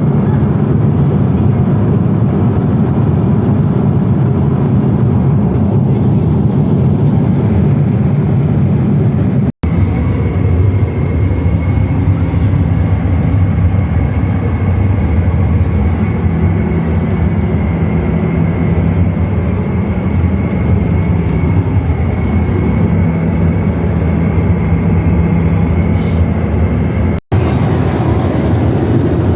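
Steady cabin noise of a Boeing 777-300ER in flight, engine hum and rushing air, with a faint high steady tone through the middle. It drops out for an instant twice, about ten seconds in and near the end.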